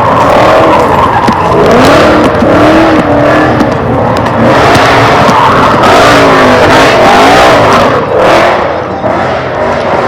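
A car's tyres squealing in a long, wavering screech that rises and falls in pitch, over the car's running engine, as in a burnout or donuts.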